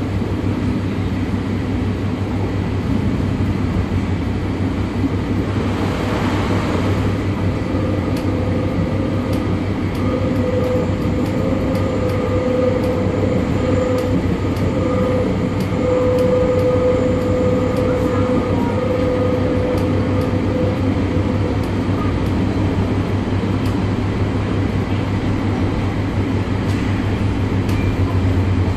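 Cabin sound of a Class 142 Pacer diesel railbus under way: a steady low rumble of engine and wheels on the rails, with frequent light clicks and rattles. A brief hiss comes about six seconds in, and a steady whine rises in the middle for about ten seconds, then fades.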